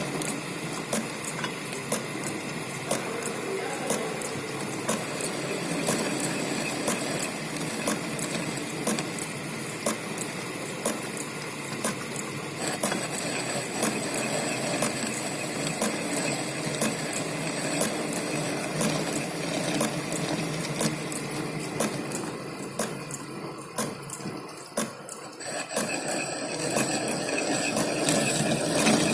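Lathe running through a facing cut across the end of a round bar, the tool fed across by the cross slide: a steady cutting noise with many small ticks. It eases off briefly near the end, then picks up again.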